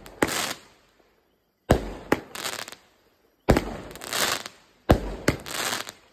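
Consumer fireworks going off shot after shot: each a sharp launch bang followed about half a second later by a crackling burst, three times, with short quiet gaps between.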